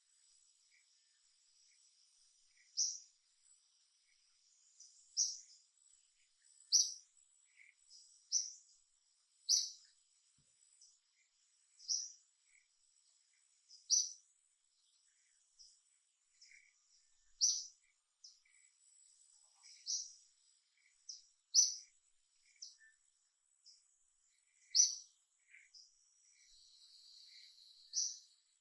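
Short, high bird chirps repeating every one to two seconds over a faint, steady high insect trill.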